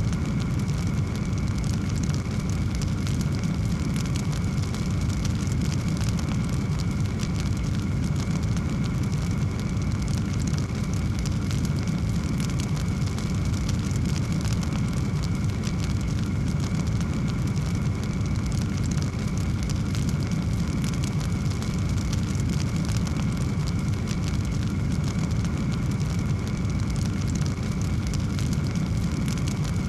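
Wood fire in a fireplace crackling continuously, with many small sharp pops over a steady low roar of the flames.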